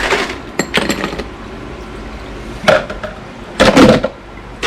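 Kitchen handling sounds: a few knocks and clinks of glassware and dishes being picked up and set down. The loudest, longest clatter comes a little before the end.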